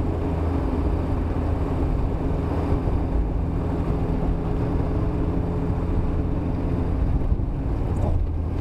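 Steady vehicle engine and road noise with a low, even drone.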